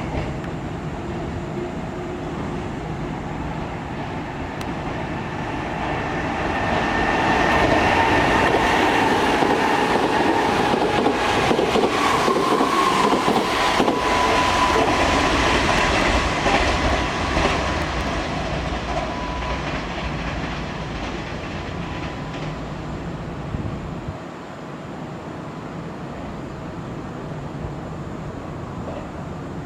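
Kintetsu electric commuter train running along the station platform, its wheels clicking over the rail joints and a high steady tone sounding. It grows louder about six seconds in, is loudest through the middle, and dies away well before the end.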